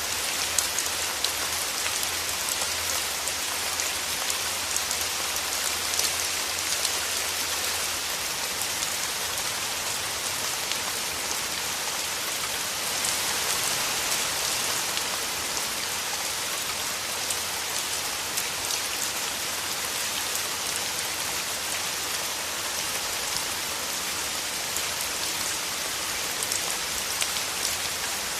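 Steady rain falling through forest trees, an even hiss with many small drop ticks scattered through it.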